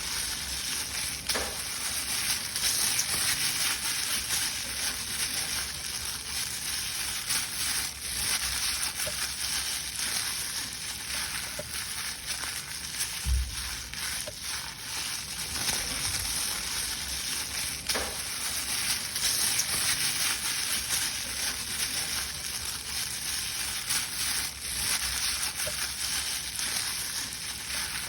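Paper being crumpled and crushed: continuous crackling and rustling full of small sharp crackles, with a low bump about 13 seconds in and another near the end.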